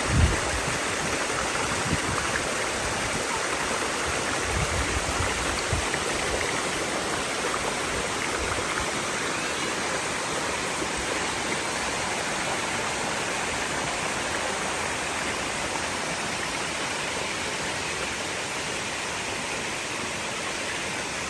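Waterfall cascade, water rushing steadily over the rocks in a dense, even hiss. A few short low bumps come in the first several seconds.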